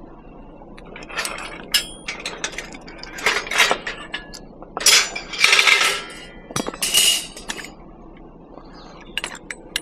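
Pieces of scrap metal, including brass taps, copper and aluminium bits, being picked up and handled: an irregular string of knocks, clinks and rattles with a few longer scraping spells.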